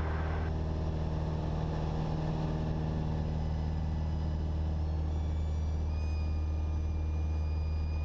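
Cessna 172SP's four-cylinder Lycoming engine running steadily at power, heard in the cabin. About five seconds in, a thin steady high tone joins it: the stall warning horn sounding as the plane nears the stall.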